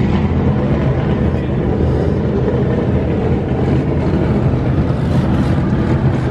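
A vehicle engine running steadily at constant speed: a deep, even drone that does not rise or fall.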